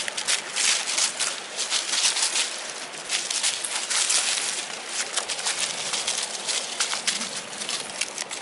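Wood fire in a small camp stove crackling, with a dense, irregular run of small pops and snaps over a steady hiss.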